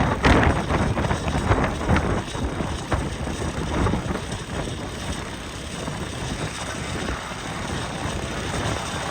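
Air Tractor's turboprop engine running, its propeller wash buffeting the microphone in gusts for the first few seconds before settling to a steadier rush.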